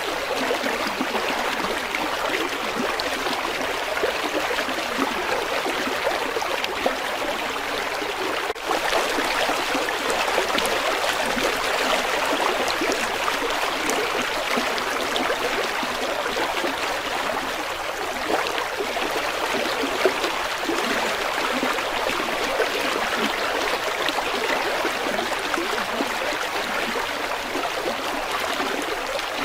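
River water flowing steadily, a continuous rushing and trickling, with one very brief dropout about a third of the way in.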